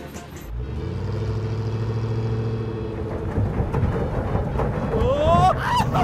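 Vehicle engine sound effect running steadily for a couple of seconds, then turning rougher, with a few short rising pitched sounds near the end.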